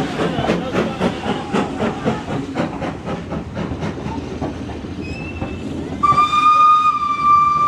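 Heritage steam train running, with a rhythmic beat of about three strokes a second that fades over the first few seconds. About six seconds in, a single steady whistle sounds for about two seconds.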